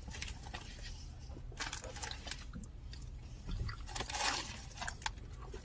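Close-up chewing and biting of a Whopper: wet, squishy mouth sounds with light crunches, a few louder bursts around four seconds in, over a low steady rumble.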